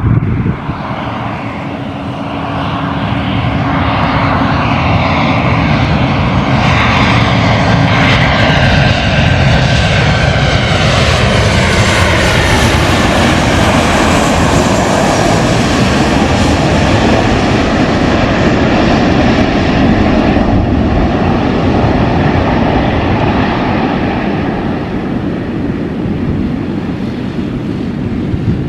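Airliner landing and passing close by. Its engine noise builds over the first few seconds, with whining tones gliding down in pitch as it goes past, then holds as a loud steady rush that eases off near the end.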